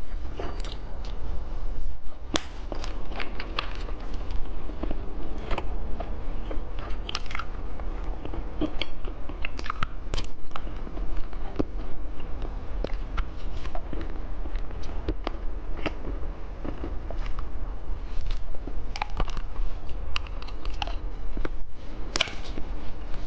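Candy being eaten close to the microphone: irregular crisp crunching bites and chewing clicks over a steady low hum.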